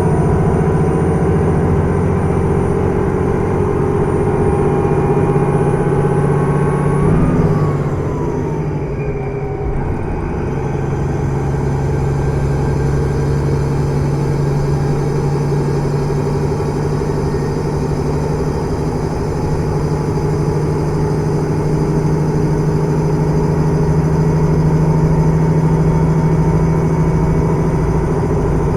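KiHa 110 series diesel railcar under way, heard inside the car: the diesel engine and hydraulic transmission run under power with a slowly rising note, break off about seven seconds in with a short dip in level, then settle into a steady drone with the running noise of the train.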